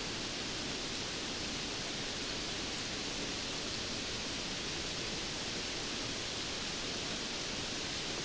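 Steady rain falling: an even, unbroken hiss with no single drops, thunder or gusts standing out.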